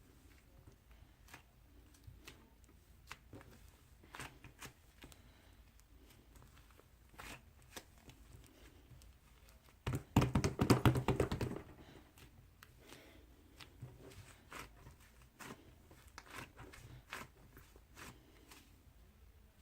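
Small handling noises: scattered light clicks and taps, with a louder rapid rattle of many clicks lasting about a second and a half near the middle.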